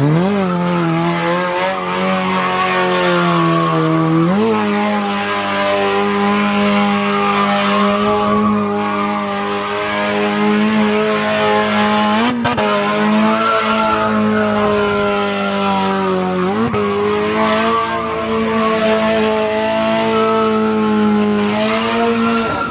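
Car engine revved hard and held at high revs while the tyres spin and squeal on the pavement in a long burnout. The engine pitch stays steady, dipping and climbing back briefly about three times.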